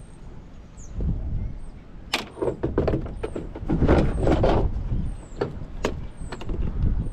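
Clicks, knocks and rattling of plastic and metal parts as an old coffee maker is pulled apart by hand, busiest in the middle.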